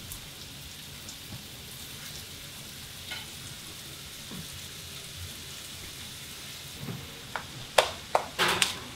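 Breaded alligator pieces frying in a skillet: a steady sizzle. Near the end come a few sharp clacks and knocks as a foil tray is slid into the oven.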